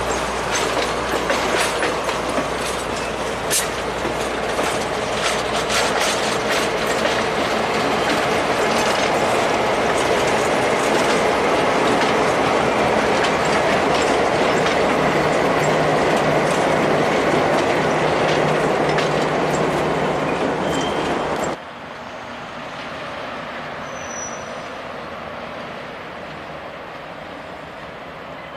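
Passenger train rolling past, its car wheels clicking over the rail joints with some wheel squeal; about halfway through the EMD F9A diesel locomotive passes, adding the steady low hum of its engine. About 21 seconds in, the sound drops abruptly to a much quieter, steady train rumble.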